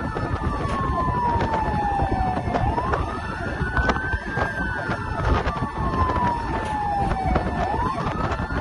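Fire engine siren on a slow wail: the pitch climbs over about two seconds, then sinks slowly over about three, twice through, over the rumble of traffic and road noise.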